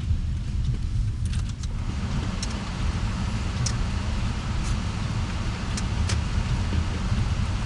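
A car heard from inside, driving: a steady low engine and road rumble, with tyre noise filling in about two seconds in. A few light clicks come at irregular moments.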